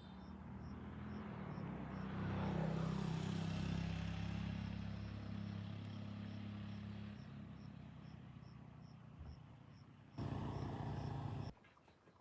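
A vehicle engine passes close by, growing louder over the first three seconds and fading away after about seven, with a faint high ticking two to three times a second. A short burst of noise starts about ten seconds in and stops suddenly.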